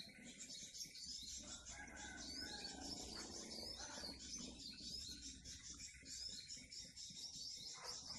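Many small birds chirping continuously, quick high chirps overlapping.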